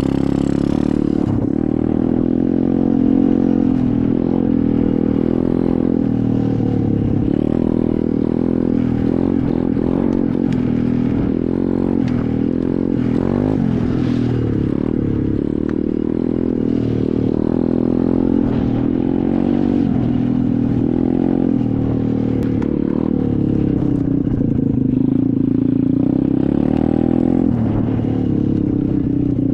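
SSR 125 dirt bike's four-stroke single-cylinder engine running while being ridden, its pitch rising and falling with the throttle.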